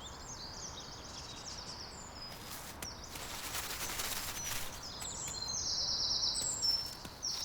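Little ringed plovers calling: series of short, high piping notes in quick succession, near the start and again, louder, over the last couple of seconds, over a soft outdoor hiss.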